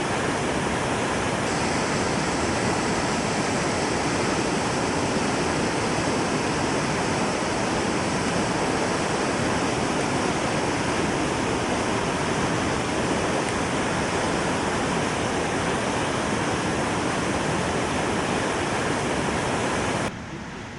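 Waterfall swollen by heavy rain, a loud, steady rush of falling water that drops away abruptly just before the end.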